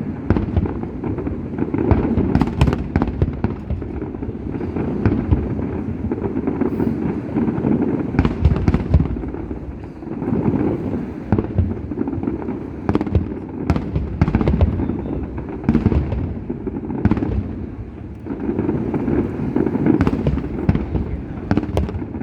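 Fireworks display: aerial shells bursting in a near-continuous barrage, deep booms overlapped by sharp cracks, the volley swelling and easing every few seconds.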